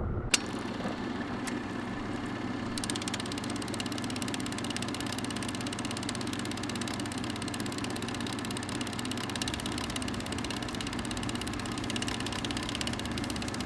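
A sharp click, then a motorcycle engine idling steadily.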